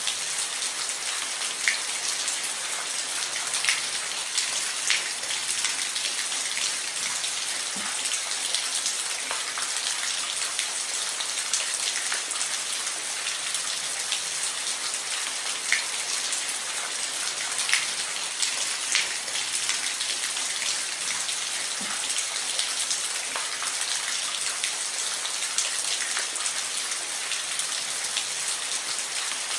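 Steady rain falling on a roof: an even hiss of rainfall with scattered sharper taps of single drops landing close by.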